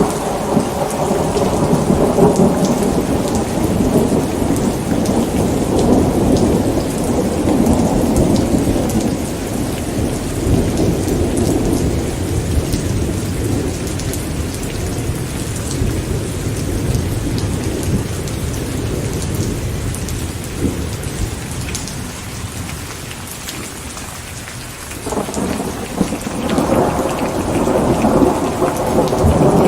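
Rain falling steadily with long rolls of thunder rumbling over it; the rumble dies down to a lull about three quarters of the way through, then a new roll builds up near the end.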